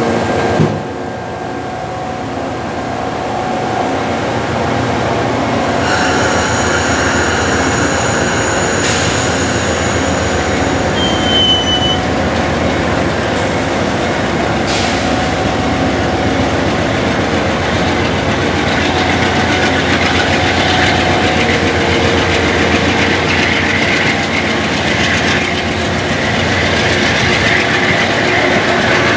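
A train rolling past loudly, its wheels clattering over the rails. High, thin wheel squeal is heard for several seconds, starting about six seconds in.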